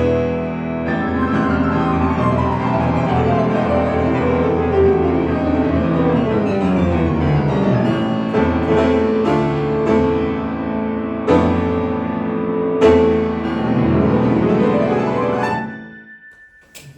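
Solo piano playing fast sweeping runs, first descending, then with loud chords and a final rising run. The music stops about a second before the end.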